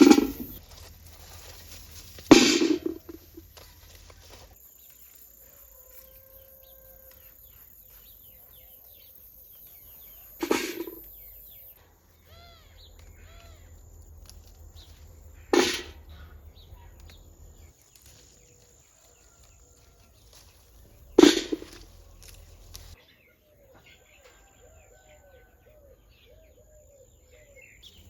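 Birds chirping, broken by four short, sudden thumps several seconds apart, the loudest about two seconds in.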